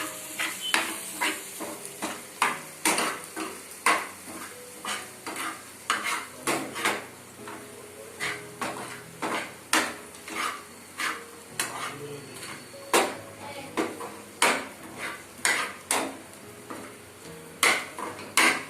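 A metal utensil scraping and clinking against a kadai while stirring onions and green chillies frying in oil, with irregular knocks about twice a second over a faint sizzle.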